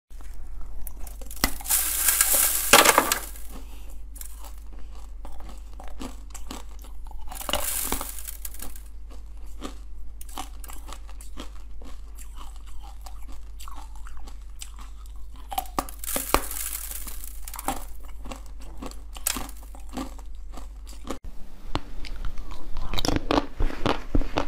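Close-miked biting and chewing of coloured jelly, with three loud bites about two, eight and sixteen seconds in and smaller wet chewing clicks between them. Further bites of another food come near the end.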